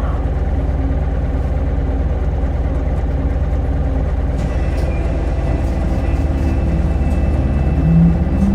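Cabin sound of a Hino Blue Ribbon Hybrid city bus, its diesel engine running low and steady at idle. From about halfway a thin high tone and faint regular clicking join in, and near the end the engine note rises as the bus pulls away.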